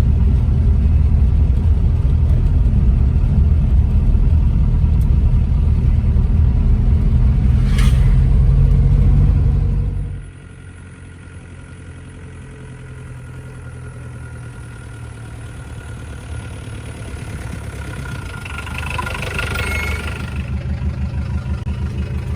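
Hindustan Ambassador's BMC Stride diesel engine running. It is loud and deep at first, then drops sharply about ten seconds in and carries on quieter, swelling a little near the end.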